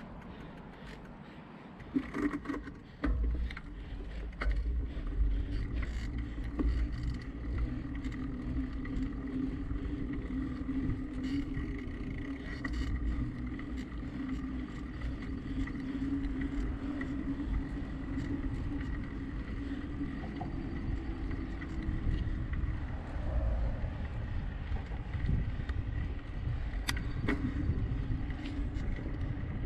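Wind buffeting the camera microphone on a moving bicycle, with road and tyre noise. A steady hum runs underneath and fades out about three quarters of the way through.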